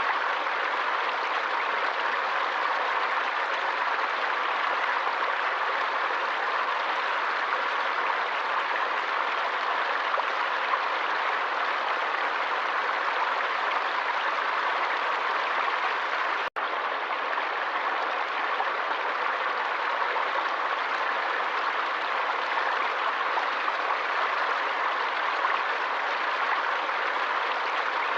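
Forest stream water rushing steadily, an even hiss with no distinct splashes. It drops out for an instant about sixteen seconds in.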